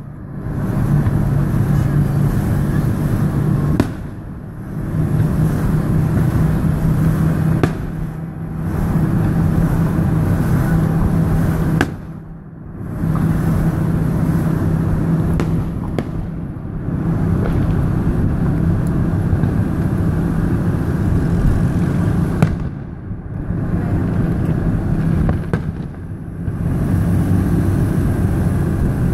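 Aerial fireworks bursting, about six sharp bangs a few seconds apart, over a steady loud low hum.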